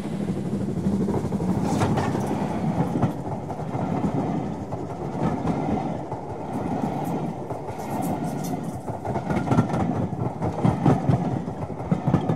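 A train running along rails: a steady rumble with irregular clickety-clack of wheels over rail joints, the clicks sharper and louder near the end.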